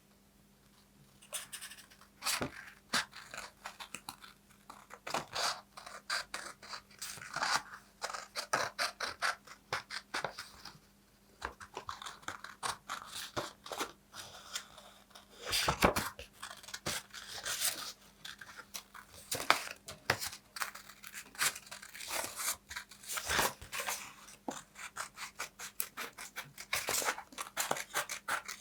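Paper being handled close to the microphone: rapid, crisp crackles, rustles and tearing-like scrapes in irregular bursts, with brief pauses.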